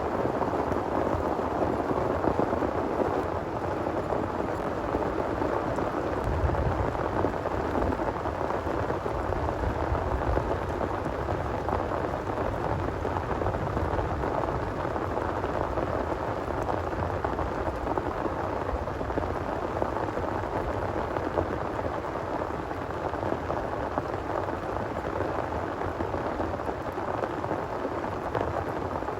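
Heavy rain pouring steadily, with a low rumble of thunder starting about six seconds in and fading out over several seconds.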